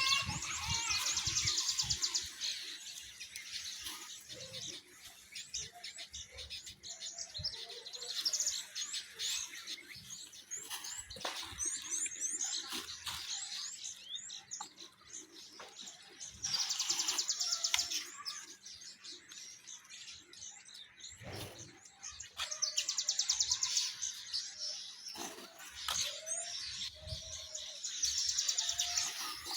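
Outdoor birds chirping and calling, with a rapid high trill about one to two seconds long that comes back every six or seven seconds. Scattered faint knocks are heard in between.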